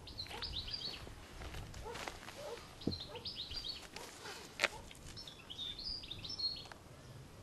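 Small birds chirping in quick runs of short high notes, over faint outdoor background noise, with two sharp clicks in the middle.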